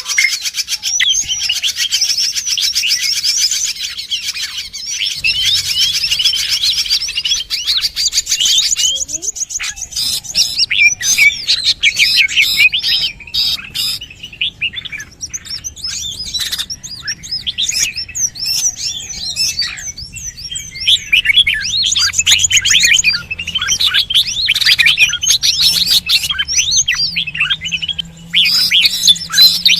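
Many small birds chirping and twittering rapidly, their short rising and falling notes overlapping in a dense chorus with a few brief lulls. This is a bird-call lure recording meant to draw wild birds in.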